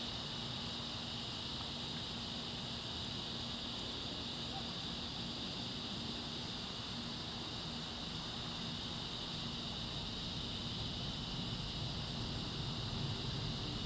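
Steady, unbroken chorus of night insects, high-pitched and continuous, with a low steady hum underneath.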